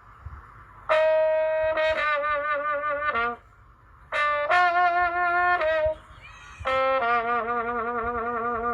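A solo trumpet playing a slow melody in three short phrases of a few held notes each, with vibrato on the longer notes and brief pauses of about a second between phrases.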